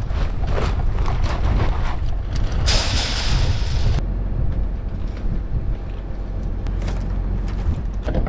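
Steady low engine rumble with wind buffeting the microphone. The wind noise cuts off suddenly about four seconds in, leaving the engine.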